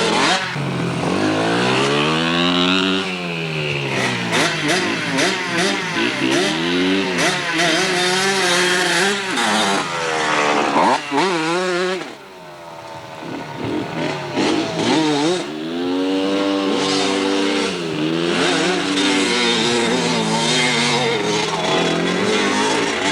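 Dirt bike engine revving up and down as it is ridden, its pitch rising and falling in long swells. About halfway through it drops away briefly, then climbs again.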